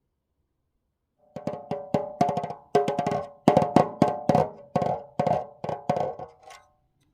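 A wooden percussion instrument struck by hand over and over, about three knocks a second. Each knock rings briefly at a few clear pitches. It starts about a second in and stops shortly before the end.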